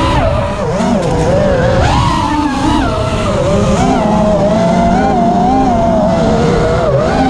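Electric motors of an FPV racing drone whining in flight. The pitch rises and falls continuously as the throttle changes.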